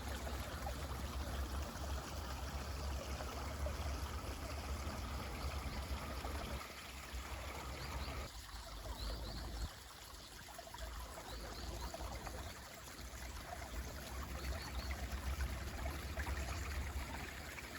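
Mountain stream running water, a steady rushing with a low rumble that eases for a few seconds partway through. A few faint, short bird chirps rise above it.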